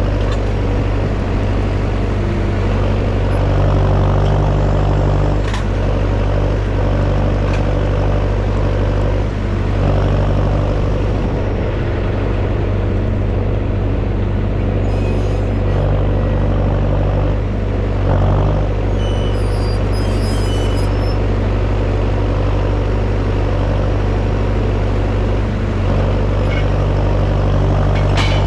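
Tractor engine running steadily at constant speed, a deep even drone, with a few faint knocks and rattles.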